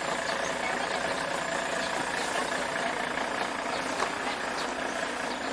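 A steady engine running, an even drone with a constant hum.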